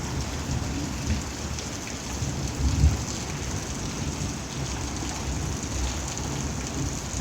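Steady rain and hail pattering down during a thunderstorm, with a couple of brief low rumbles, the strongest about a second in and just before three seconds.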